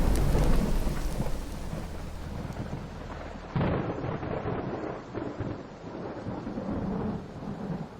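Thunder sound effect: a loud crash rumbles away over a few seconds, then a second, softer thunderclap rolls in about three and a half seconds in and dies away.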